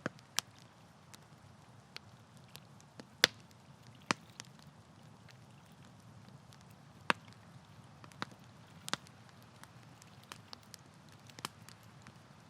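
Campfire wood crackling and popping: irregular sharp snaps, a few louder pops among them, over a faint low rumble of the burning fire.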